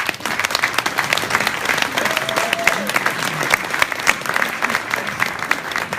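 Audience applauding: dense, steady clapping that starts abruptly and keeps up.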